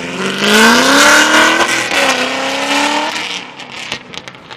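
A loud sports car accelerating hard: the engine revs up, drops at a gear change about two seconds in, revs up again, then fades away with a few sharp pops.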